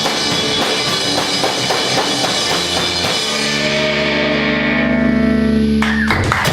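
Live rock band playing loud with distorted electric guitar and drums; about three seconds in the drums stop and a final distorted chord is held ringing. It cuts off near the end, and a high wavering whine starts.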